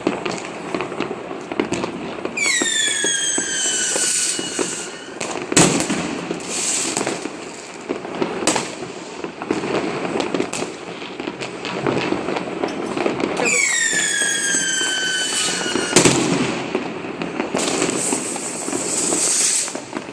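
New Year's Eve fireworks: a steady crackle of many firecrackers, with two whistling fireworks whose whistles fall in pitch, each followed by a loud bang, about eleven seconds apart.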